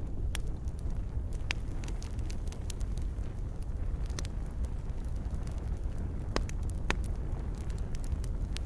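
Wood campfire burning, with a steady low rumble of flames under irregular sharp crackles and pops. Two pops stand out a little louder, about two-thirds of the way through.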